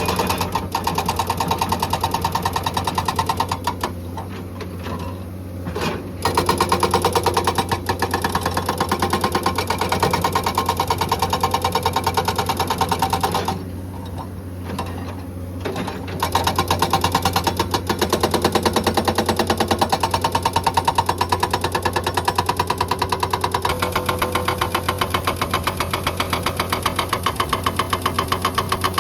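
Hydraulic breaker on a Komatsu excavator hammering rock in a rapid, steady rattle over the running diesel engine. It stops briefly twice, about four seconds in and again about fourteen seconds in, leaving only the engine.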